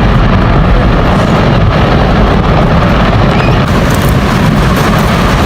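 Loud, steady rushing rumble, heaviest in the low end, of a gigantic wave raised by a collapsing glacier.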